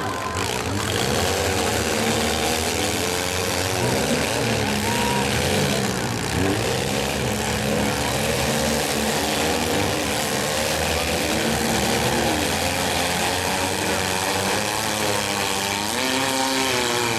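Several compact-car engines running at once, revving up and down as the derby cars push against each other.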